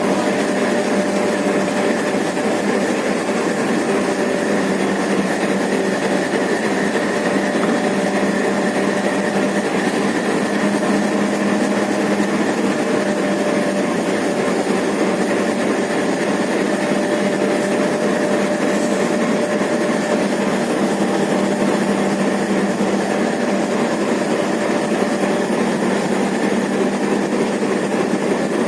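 Diesel locomotive engine running steadily: a continuous drone with a few held tones and no clanks.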